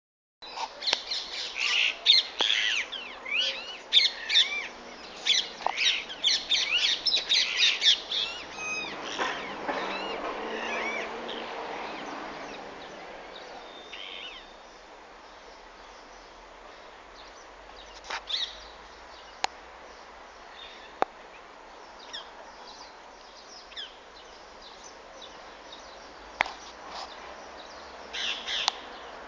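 A flock of green parrots screeching from the treetops: a dense run of shrill, sweeping squawks, then a few seconds of rushing noise that swells and fades. After that come scattered single calls, with a short loud burst of squawks near the end.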